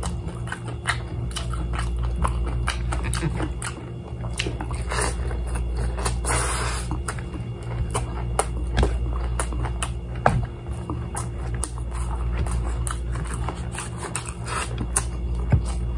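Close-up chewing and biting of crispy fried chicken and rice, with many short sharp crunches and mouth clicks, over a steady low hum.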